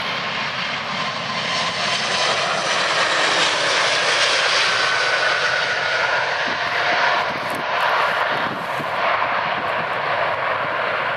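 Jet airliner's engines running loud and steady, a dense rush of noise with a faint high whine through it.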